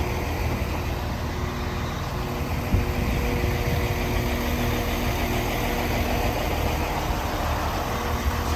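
Diesel train engine idling, a steady low rumble with a faint hum, and a single thump about three seconds in.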